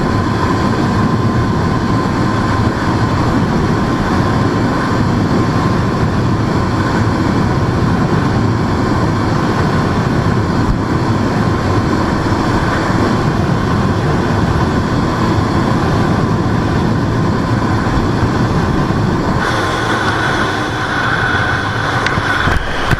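Yamaha YZF-R125's single-cylinder four-stroke engine running hard at sustained high speed, a steady drone mixed with heavy rushing noise. About twenty seconds in, the engine note changes and the overall level dips slightly.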